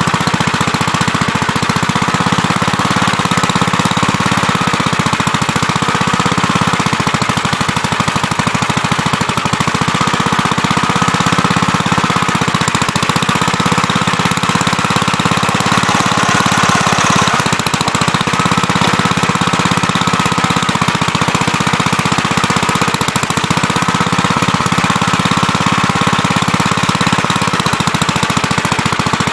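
Gravely Terramite backhoe's engine running steadily and loud while digging, with a whine that swells and fades several times.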